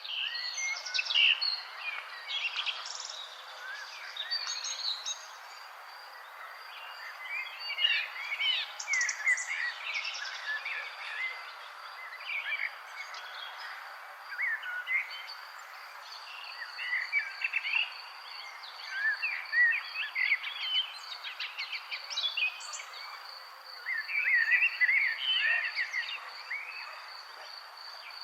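Several birds singing and calling in short, irregular chirps and trills over a steady pulsing insect trill, with a soft background hiss.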